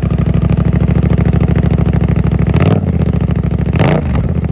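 Suzuki GSX-8R's parallel-twin engine idling loudly through a TOCE full-system exhaust with its dB-killer baffle fitted, then blipped three times in the second half, each rev rising and dropping quickly.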